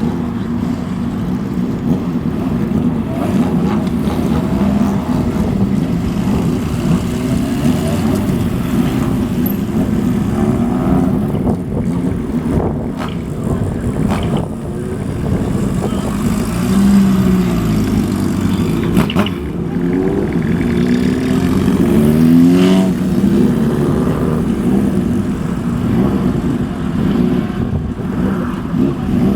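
Motorcycle engines running as bikes ride past one after another. Their exhaust notes rise and fall as riders rev, loudest at about seventeen seconds and again at about twenty-two seconds.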